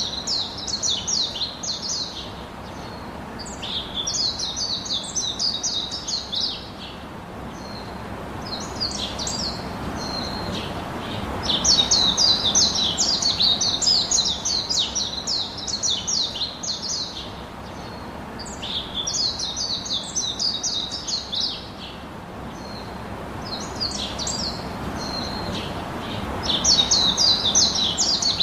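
Birds chirping in quick bouts of rapid, high repeated notes, each bout lasting a few seconds with short pauses between, over a steady background hiss.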